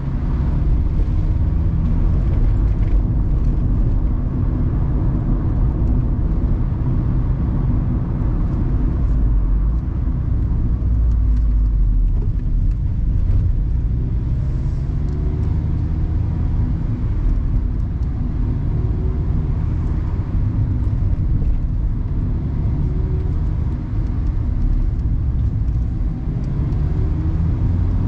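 Mazda ND Roadster's 1.5-litre four-cylinder engine running under way on a mountain road, its note rising and falling through the bends. A steady low rumble of road and wind noise comes through the open cockpit.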